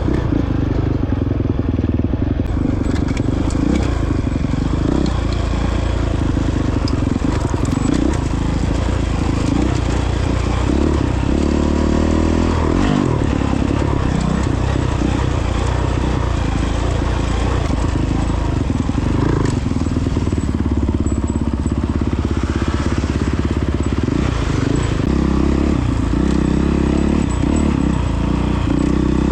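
Honda CRF450X dirt bike's single-cylinder four-stroke engine running hard off-road, its pitch rising and falling several times with the throttle.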